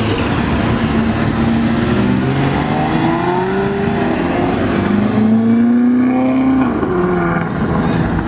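A car engine accelerating hard, its pitch climbing, then dropping at an upshift about four and a half seconds in and climbing again.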